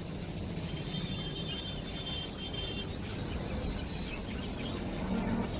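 Steady outdoor background: a low rumble with insects buzzing high above it and brief bird chirps about a second or two in.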